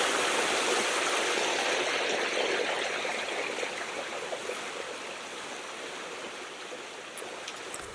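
Creek water running in a steady rush that slowly grows fainter.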